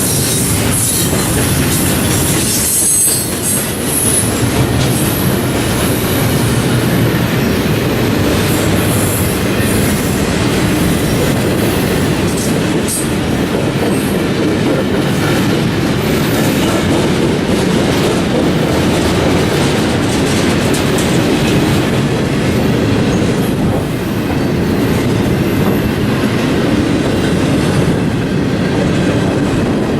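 Intermodal freight train cars rolling past: a steady rumble of wheels on rail with clicks from the wheels, and a high wheel squeal in the first few seconds.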